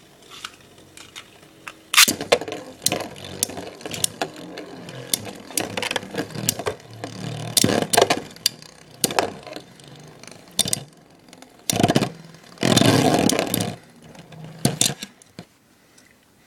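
Two Beyblade spinning tops, Lightning L-Drago and metal-tipped Burn Fireblaze, battling: spinning, scraping and clacking against each other in repeated hits, with a sharp clack about two seconds in and a long grinding clash about three quarters of the way through.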